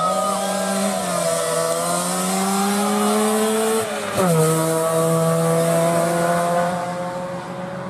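Rally car engine at full throttle, its pitch climbing steadily and then dropping sharply about four seconds in at an upshift. It then pulls hard again at a steady high pitch and fades near the end as the car draws away.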